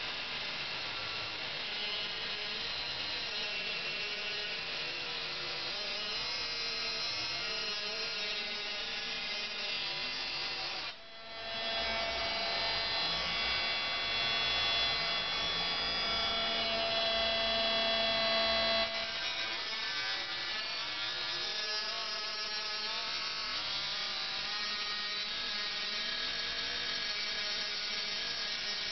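Small brushed motor from a cordless screwdriver spinning a diamond cut-off disc, running as a continuous whine. About 11 s in it briefly dips, then runs louder and steadier for roughly eight seconds before the wavering whine returns.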